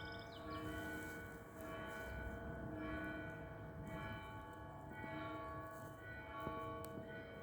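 Church bells ringing, a new stroke about once a second, each tone ringing on under the next.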